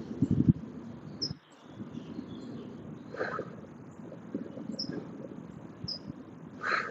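Outdoor ambience: a steady background hiss with a few short, high bird chirps scattered through it, and a brief rustle of movement at the start.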